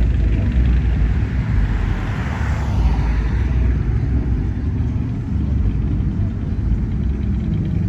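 Classic car engines and exhausts rumbling low as cars cruise past, with one car passing closest and loudest about two to three seconds in.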